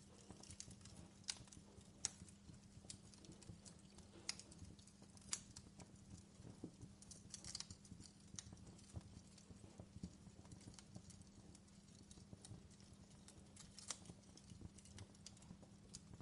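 Fireplace crackling: faint, irregular pops and snaps of burning wood over a steady low hum.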